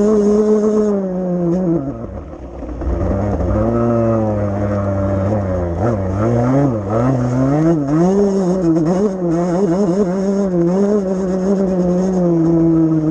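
Motocross bike engine revving hard on track. The pitch drops as the throttle is shut about two seconds in, then climbs again and rises and falls quickly with the throttle.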